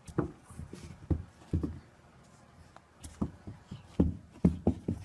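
Irregular soft, low thumps and a few light taps, about a dozen in all: a small dog bounding and pouncing on carpet.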